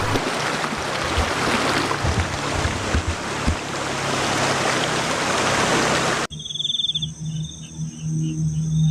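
A steady rushing noise that cuts off suddenly about six seconds in, followed by crickets chirping in short repeated trills over a low hum.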